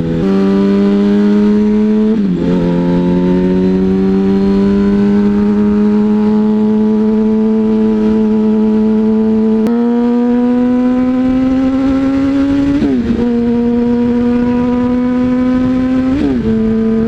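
Yamaha R1's inline-four engine under way, its pitch climbing slowly through each gear, with upshifts about two seconds in and twice near the end.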